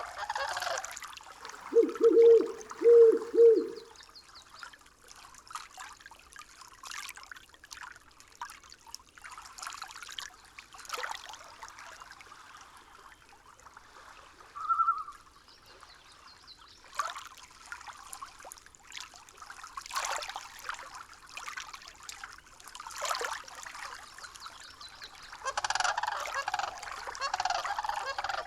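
Nature soundscape of bird calls. There are three loud, low, honk-like calls about two seconds in, then scattered short clicks and a brief single chirp, and a busy burst of calling near the end.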